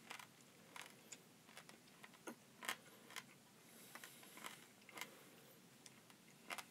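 Faint chewing of a dried edible bug: soft, scattered crunchy clicks at an uneven pace.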